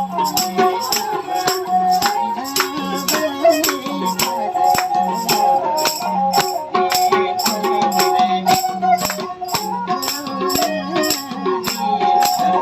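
Nepali folk music: a sarangi playing a wavering melody over steady, rapid percussion strokes with a rattling, jingling character.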